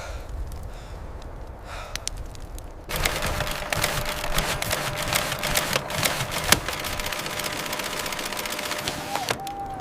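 Dense, rapid gunfire, machine-gun fire, breaking out about three seconds in over a low rumble and running on as a continuous crackle of shots.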